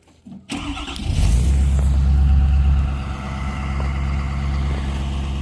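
Ford F-350 pickup truck's engine running steadily while driving, with a low hum and road noise. It comes in suddenly about half a second in and is a little louder for the first couple of seconds.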